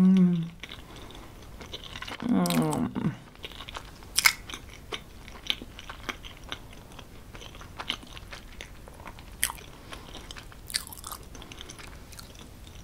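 Close-miked chewing of creamy cheese tortellini pasta with vegetables and bacon: soft, wet mouth clicks and smacks scattered throughout. A short voiced murmur comes at the very start and another about two seconds in.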